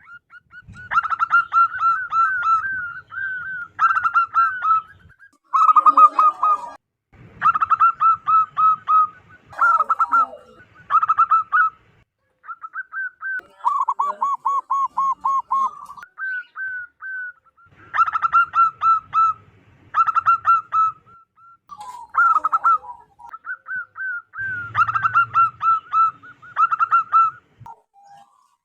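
Zebra dove (perkutut) cooing: repeated phrases of quick, staccato notes, each phrase lasting one to two seconds and separated by short pauses.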